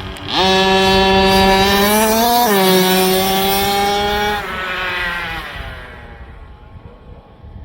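Radio-controlled truck's motor pulling away: its tone jumps in, climbs steadily, drops suddenly about two seconds in as the truck shifts gear, holds, then falls and fades as the truck slows.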